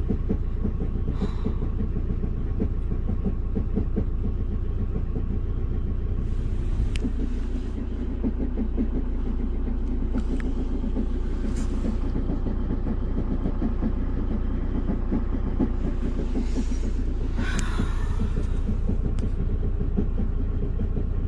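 Campervan engine idling with an abnormal fast, even clatter and rumble, felt as vibration through the floor: the noise the owner blames on a faulty dealer repair. A few brief rustles or scrapes come in over it.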